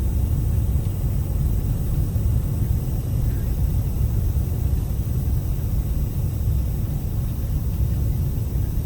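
Steady low rumble and hiss of airflow and engines inside the cabin of an Airbus A380 airliner on its landing approach.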